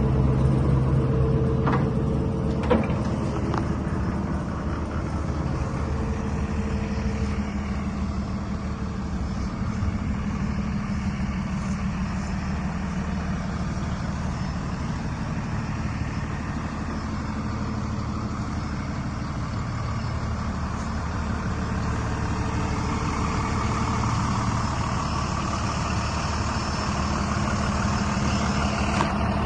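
A 2020 DAF 18-tonne refrigerated truck's diesel engine running steadily, with one short sharp click a little under three seconds in.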